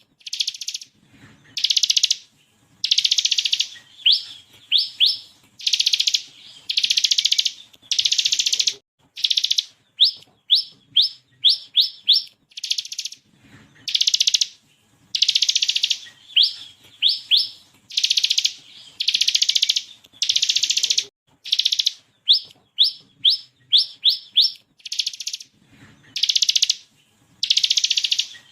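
Bar-winged prinia (ciblek kristal) singing. Quick runs of three to five sharp, rising whistled notes alternate with dense buzzy rattles about a second long, and the whole sequence repeats every twelve seconds or so.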